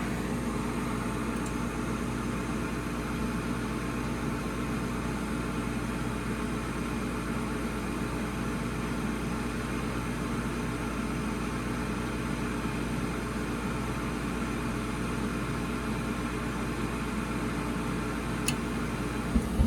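Furnace draft inducer (flue) motor running steadily after spinning up, while the pressure switch fails to close: typical of too little negative pressure or a bad switch. A sharp click about a second before the end, then a few loud thumps.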